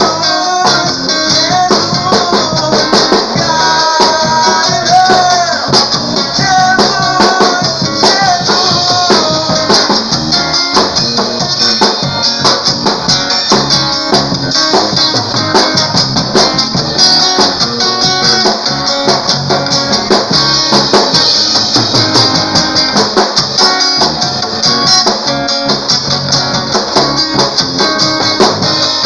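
Band music led by guitar, with drums and shaker-like percussion keeping a steady beat. A melody line plays over it for the first several seconds.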